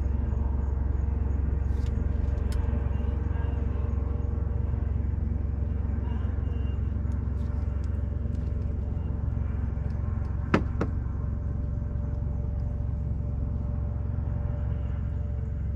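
Wood fire burning with a few faint crackles and one sharp pop about ten and a half seconds in, over a steady low rumble of city traffic.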